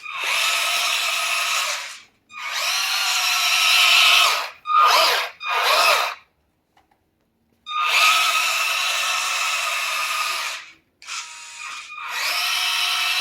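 Remote-control off-road truck's electric motor and drivetrain whining in a series of throttle bursts of under a second to about three seconds each, with short pauses between.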